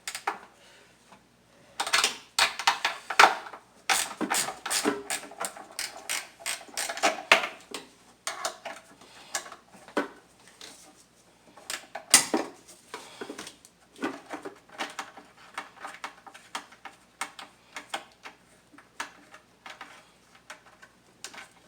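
Ratcheting 10 mm wrench clicking as it loosens a bracket nut, the metal clicks coming in quick spells with short pauses between them.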